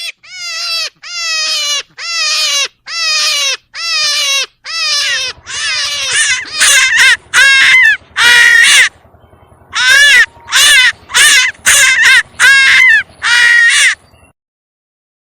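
An animal calling over and over, about twenty clear falling cries in a row. The cries grow shorter, quicker and louder about halfway through, then stop suddenly.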